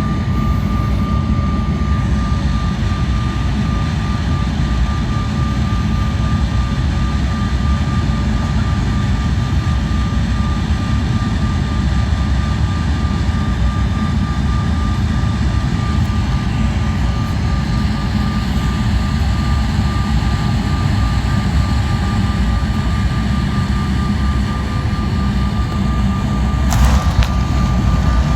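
Airliner cabin noise on the approach: a steady loud rumble of jet engines and rushing air, with a thin steady whine running through it. Near the end a short noise breaks in and the rumble grows slightly louder.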